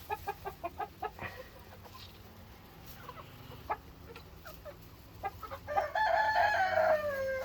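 Chickens clucking in a quick run of short notes, then near the end a rooster crows: one long call that falls in pitch as it ends.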